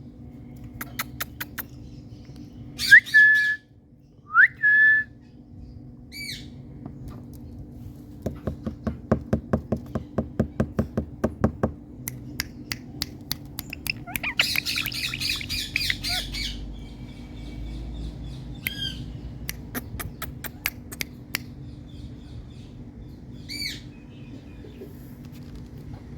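Indian green parrot calling: two loud squawks that sweep up and hold a high note about three and four and a half seconds in, then a harsh chattering burst and a few shorter sharp calls. Between them comes a quick run of ticks, over a steady low hum.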